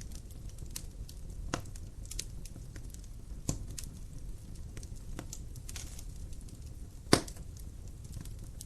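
Campfire crackling: scattered sharp pops and snaps over a low steady rumble, the loudest pop about seven seconds in.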